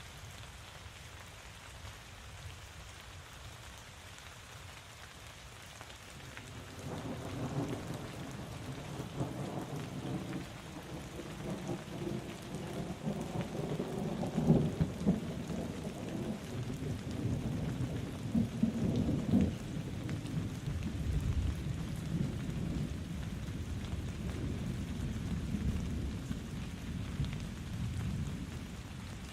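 Steady rain falling, joined about six seconds in by a long, low roll of thunder that swells twice and dies away near the end.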